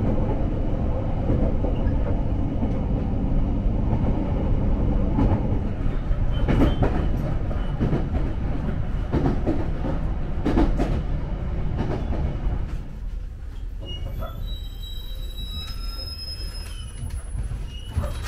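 Local electric train heard from inside the passenger car, running with a steady rumble and sharp clicks of the wheels over rail joints. About 13 seconds in it grows quieter as it slows, and thin high squeals of the brakes and wheels ring out as it draws to a stop.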